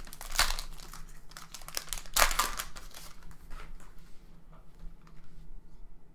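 Plastic trading-card pack wrappers crinkling and tearing as 2017 Panini Optic Football packs are opened and the cards handled. The loudest crinkle comes about two seconds in, followed by lighter rustling and small clicks that fade.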